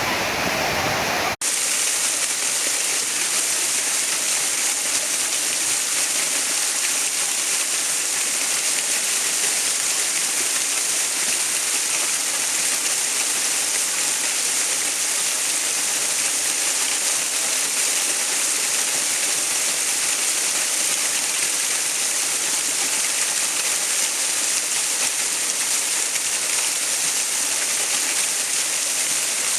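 Steady rushing water as a continuous, bright hiss with little low rumble. About a second and a half in, a sharp edit cut briefly drops the sound, and a fuller, deeper water sound gives way to this thinner, hissier one.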